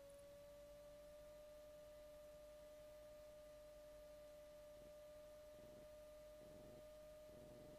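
Near silence in the cockpit audio feed, apart from a faint steady electrical whine holding one pitch.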